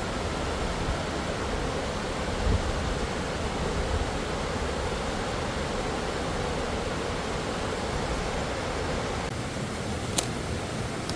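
Waterfall rushing as a steady wash of falling water. There are a couple of low thumps about two and a half and four seconds in, and a sharp click near the end.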